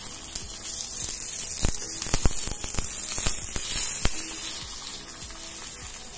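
Masala paratha frying in ghee on a hot tawa: a steady sizzle with scattered sharp crackles, loudest in the middle.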